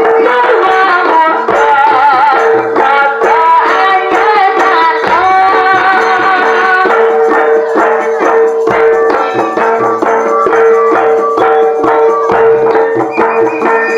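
Live jaranan music: a wavering melodic line over a steady held drone, with drums and rattling percussion. About halfway through the melody drops back and the drumming becomes dense and busy.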